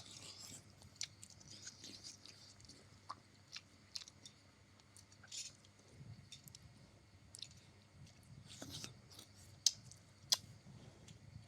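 Close-up eating sounds: a person chewing egg noodles, with many small mouth clicks and smacks.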